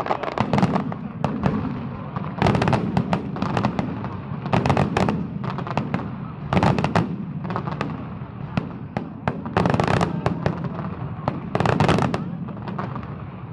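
Aerial fireworks going off: clusters of sharp crackling bangs roughly every two seconds.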